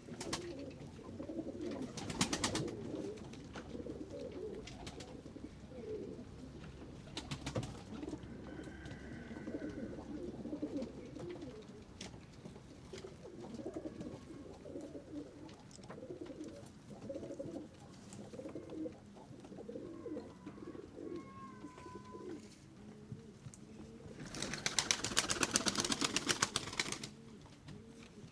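A flock of pigeons cooing steadily throughout. A loud flurry of rapid wing flaps comes near the end, with two short ones early on.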